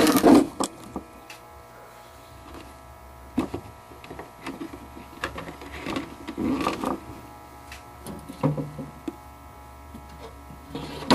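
A steady electrical hum, with scattered light knocks and rustles from handling.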